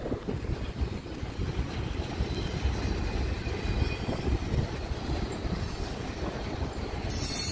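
A double-stacked intermodal container freight train rolling past, its steel wheels giving a steady rumble on the rails with faint high squeals at times.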